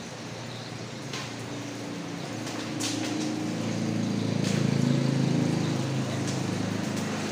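Heavy rain rumbling, swelling to its loudest about halfway through, with a few sharp knocks from metal rack parts being handled.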